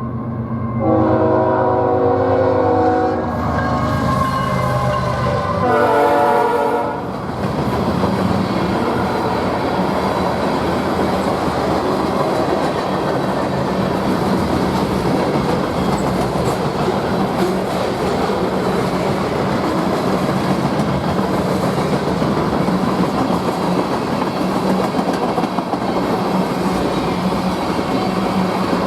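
A diesel locomotive's K5-series five-chime air horn blows for a grade crossing. One blast ends about three seconds in, and a final blast ends about seven seconds in. After that the train passes, with steady wheel and rail noise and a low steady hum.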